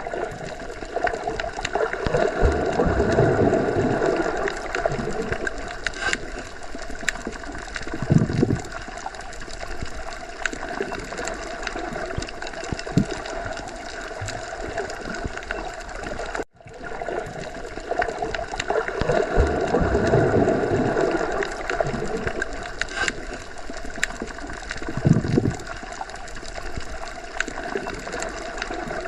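Underwater ocean ambience: a muffled wash of moving water with gurgling swells. The same stretch of sound repeats as a loop, with a brief dropout at the loop point about 16 seconds in.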